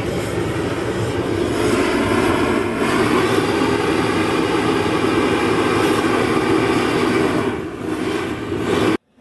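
A steady engine drone with an even pitch, cutting off abruptly near the end.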